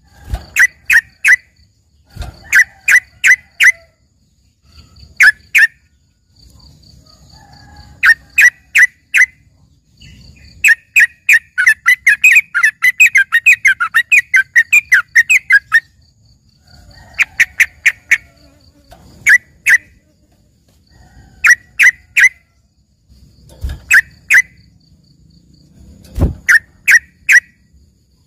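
Yellow-vented bulbul (trucukan) singing: loud, sharp notes in quick groups of three or four, separated by short pauses. About ten seconds in, it breaks into a long, rapid string of notes lasting several seconds. It sings continuously, its song filled with learned phrases likened to a greater green leafbird's.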